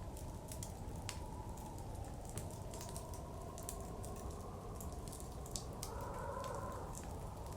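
Wood fire crackling and popping in a fireplace, with irregular sharp snaps, over a steady rush of blizzard wind that swells in a gust about six seconds in.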